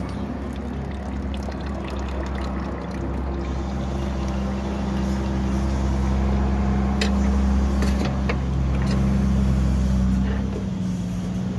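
Suzuki 660 engine running steadily at idle, a little louder through the middle and easing back near the end, with a few light clicks.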